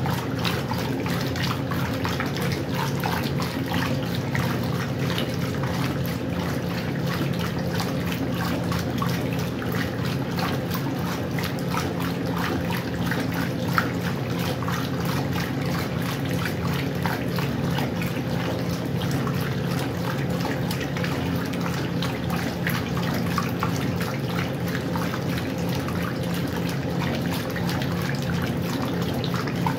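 Westinghouse washing machine with water running steadily into or through the tub, under a constant low hum.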